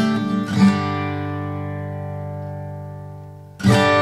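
Background music on acoustic guitar: a chord strummed about half a second in rings out and slowly fades, then a fresh strum comes in near the end.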